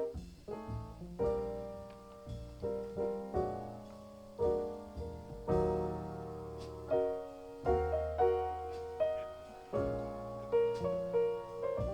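Jazz piano solo of slow chords and single notes, each struck note dying away before the next, played back through ATC SCM20 loudspeakers and picked up by a microphone in the room.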